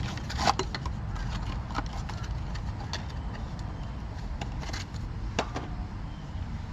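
Steady low mechanical hum with a few light clicks and taps scattered through it.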